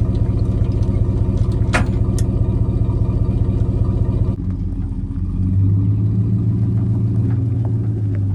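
A vehicle engine running steadily, with two sharp clicks about two seconds in; a little after four seconds the engine note changes and settles into a lower, steady drone.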